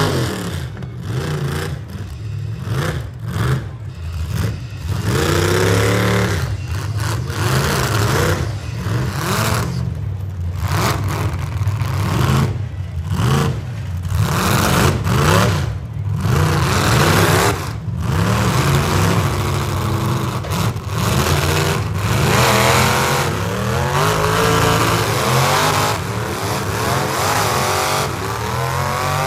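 Several demolition-derby V8 engines revving hard, their pitch climbing and falling again and again as the cars shove against each other.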